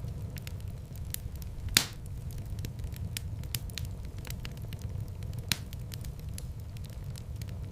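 Wood fire in a fireplace crackling steadily over a low, even rumble of flames, with frequent small clicks. There is a sharp pop about two seconds in, the loudest moment, and a smaller one a little past five seconds.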